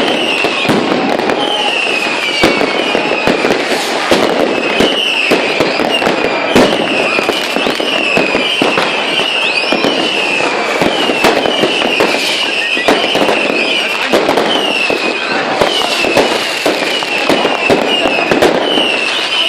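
Fireworks and firecrackers banging and crackling without a break, with many short whistles falling in pitch going off one after another.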